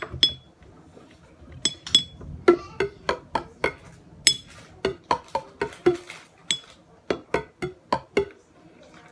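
Repeated sharp clinks on hard dishware, each with a brief ring. A couple come at the very start, then after a short pause they fall into a steady run of about three a second.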